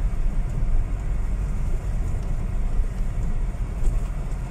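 Car driving along a gravel road, heard as a steady low rumble of engine and tyres.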